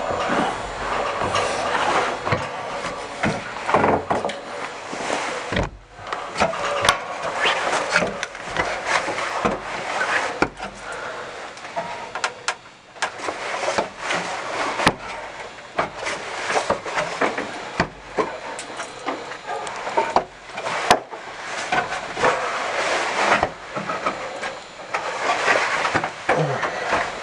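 Irregular rubbing and scraping with many scattered sharp knocks and clicks. The sound briefly drops away about six seconds in and again near thirteen seconds.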